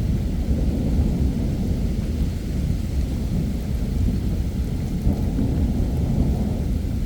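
Thunderstorm: a long, low rumble of thunder that runs on without a sharp crack, over the hiss of heavy rain.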